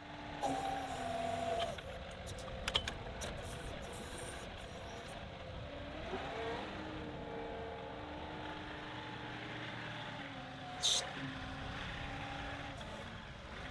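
Compact tractor's diesel engine running while the backhoe's hydraulics work, with whining tones that shift in pitch as the load changes and a rise in pitch about six seconds in. A short hiss comes about eleven seconds in.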